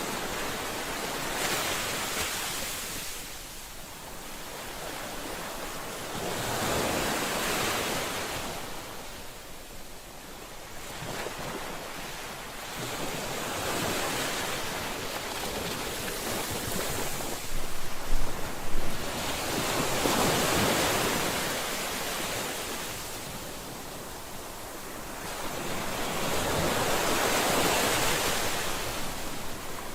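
Ocean surf, waves breaking and washing in, rising and falling about every six seconds. A few brief low bumps come about eighteen seconds in.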